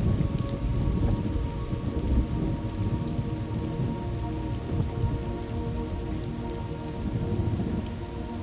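Thunderstorm ambience: steady rain with a low rolling rumble of thunder, heaviest in the first couple of seconds and easing toward the end, with a faint held drone of steady tones underneath.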